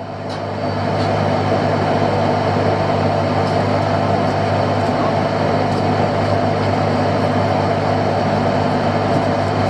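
Fishing boat's engine running, swelling over the first second and then holding a steady hum.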